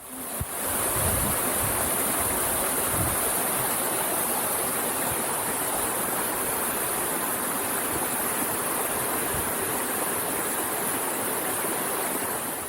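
Steady rush of a tall, thin waterfall falling into its plunge pool, a dense even hiss of water, fading in at the start and out near the end. A few low thumps come in the first few seconds.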